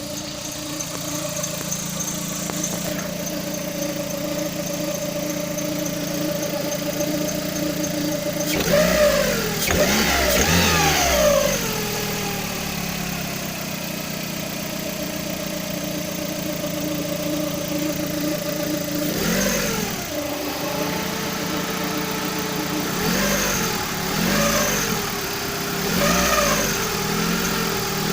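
Car engine idling with a steady whistle. It is revved once, about nine seconds in, then blipped several times in quick succession near the end.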